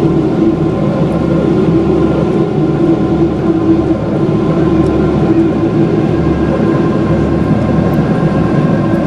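Jet airliner cabin noise: engines and airflow droning steadily, with a steady low hum and a few fixed tones running through it.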